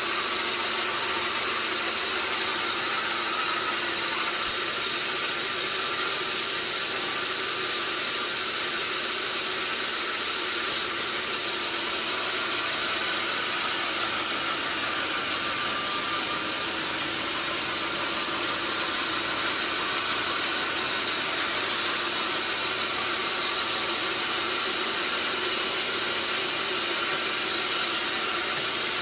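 Sawmill machinery running steadily: a constant mechanical noise with a high, steady whine and no breaks.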